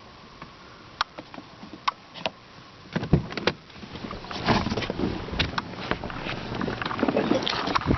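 Handling noise inside a car cabin: a few sharp clicks, then heavier knocks about three seconds in, then continuous rustling and knocking as someone moves about and handles the rear interior trim.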